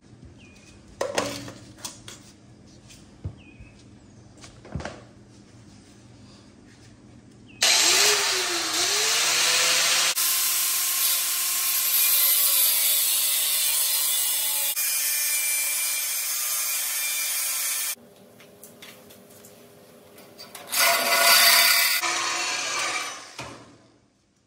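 A handheld power tool working metal on a lawn mower frame: a few knocks, then the tool spins up and runs for about ten seconds before stopping abruptly. A second, shorter run of two to three seconds comes near the end.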